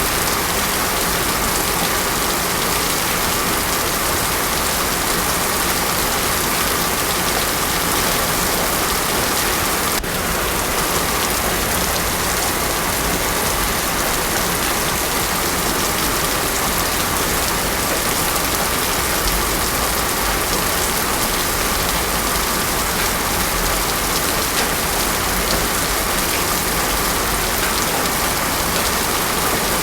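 Heavy rain falling in a steady, unbroken downpour, with no thunder.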